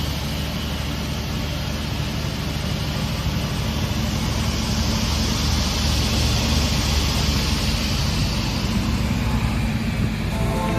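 SCM M3 crawler-feed multi-rip saw running steadily, its 37 kW main motor and saw blades giving a continuous loud mechanical noise.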